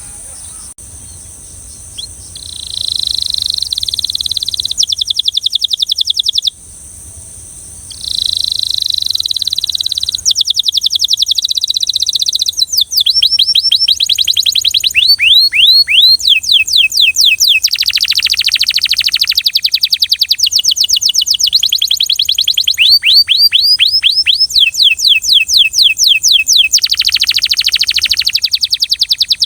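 Belgian canary singing in long phrases of fast trills of repeated notes, some rolls sweeping lower. It starts a few seconds in, breaks off briefly, then trills almost without stop. A steady high-pitched tone runs behind the song.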